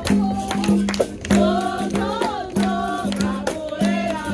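Capoeira roda music: voices singing over the berimbau and hand percussion, with a repeated steady low note and frequent sharp strikes.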